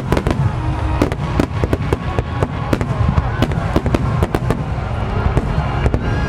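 A dense barrage of aerial firework shells bursting and crackling in quick succession, many sharp reports a second over a continuous low rumble, with music playing underneath.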